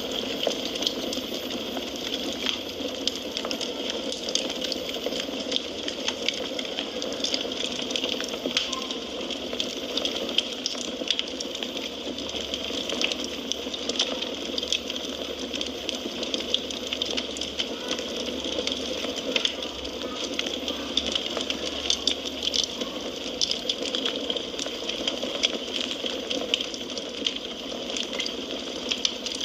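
Wood fire crackling: a steady hiss with frequent small, sharp pops and snaps.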